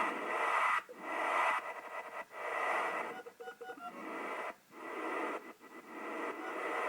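General MIDI synthesizer wind effect, hissing in a string of swells about a second long that start and stop abruptly, with a few short synthesized bird chirps about halfway through. The notes are triggered by EEG brainwave readings.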